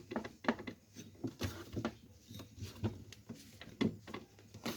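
Irregular plastic clicks and knocks, several a second, as parts of a meat grinder are pushed and fitted together by hand; the new plastic coupling goes onto its splines stiffly.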